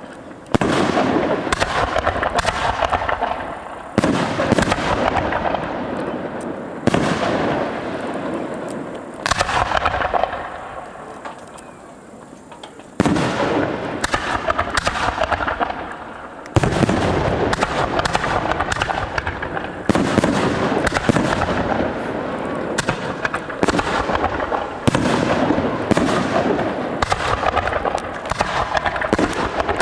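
Fireworks display: aerial shells bursting one after another, each sudden bang followed by a dense crackling tail. The bangs come every few seconds, with a quieter lull about ten seconds in.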